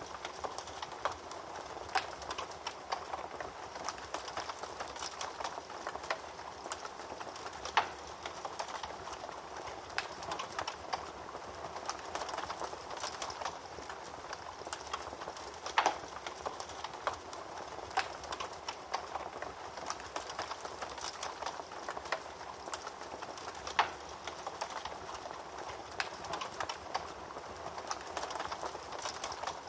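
Wood fire burning in a fireplace: steady crackling with a soft hiss, and a louder sharp pop about every eight seconds.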